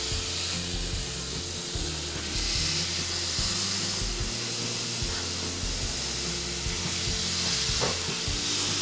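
Fresh pineapple wedges sizzling as they are laid into a very hot grill pan, a steady frying hiss that grows a little louder about two seconds in as more wedges go down.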